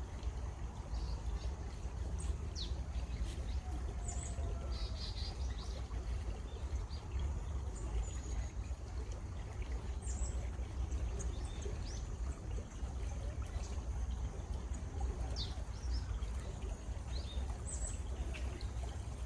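Running stream water with a steady low rumble, and small birds calling now and then with short high chirps and a couple of quick trills.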